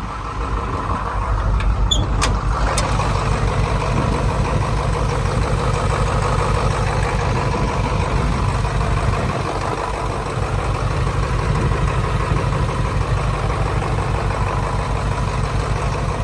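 Detroit Diesel 8.2L V8 engine of a 1985 GMC 7000 plow truck running steadily, with a few sharp clicks about two seconds in.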